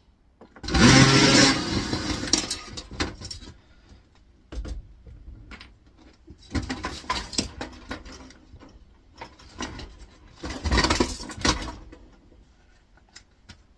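Parts from a dismantled air fryer clattering and rattling as they are handled and sorted. A loud clatter comes about a second in, then several shorter bursts of rattling and knocks follow.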